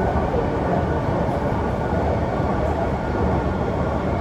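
Kawasaki C151 metro train running steadily between stations, heard from inside the carriage: a continuous rumble of wheels on the rails with a faint steady hum from the motors.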